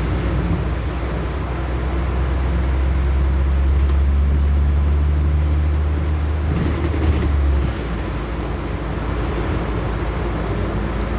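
Engine of a LiAZ-6213.65 articulated city bus heard from inside the cabin, running under load with a steady low drone. About seven seconds in there is a short hiss, and the drone then drops off as the engine eases off.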